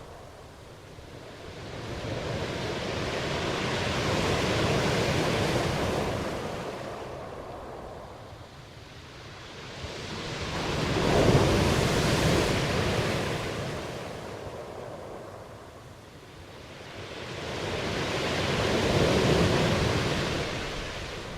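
Ocean waves breaking and washing in, three slow swells of surf that each build and fall away over several seconds; the middle one, about eleven seconds in, is the loudest.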